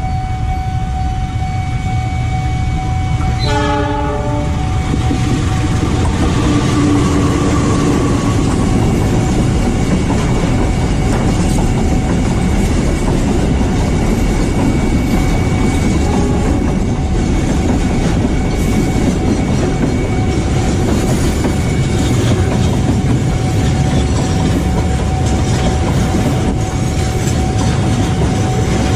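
Diesel container freight train passing close by: the locomotive sounds its horn about three and a half seconds in, then the loaded container flatcars roll past with continuous wheel clatter and rumble on the rails. A thin steady tone runs underneath.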